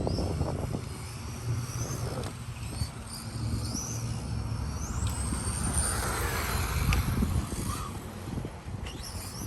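Electric 1/10 RC touring cars running on a track: high-pitched motor whines rising and falling as they speed up and slow down, over a low rumbling noise.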